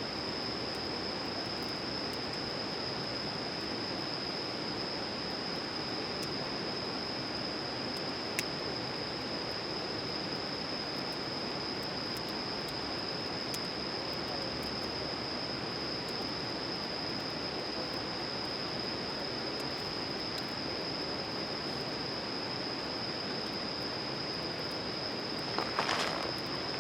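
Steady outdoor background: an even rushing hiss with a constant high-pitched drone on top. A few sharp clicks and rustles near the end.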